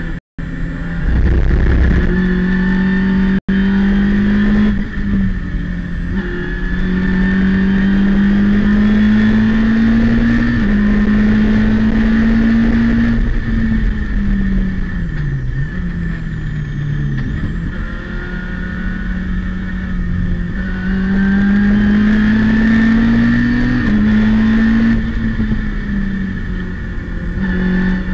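Citroën Saxo race car's four-cylinder engine heard from inside the cabin, pulling at high revs. Its pitch climbs and drops back at each gear change, falls away twice around the middle as the car brakes and downshifts, then climbs again. The sound cuts out for an instant twice in the first few seconds.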